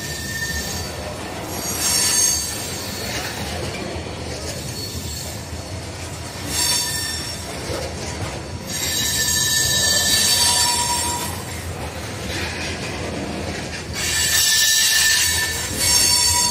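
Freight train of covered hopper cars rolling past with a steady rumble of wheels on rail, broken by several bouts of high-pitched squealing from the steel wheels, the longest lasting a few seconds in the middle.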